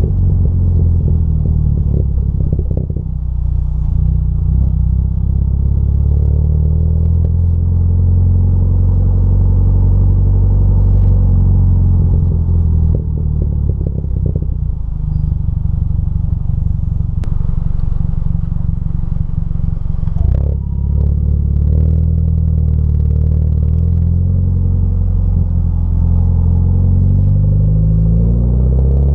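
Volkswagen Tiguan engine heard through a custom exhaust with the stock muffler and resonator deleted and a small resonator on the mid pipe: a steady, deep exhaust drone at an even engine speed, with the pitch starting to climb near the end as the engine revs up.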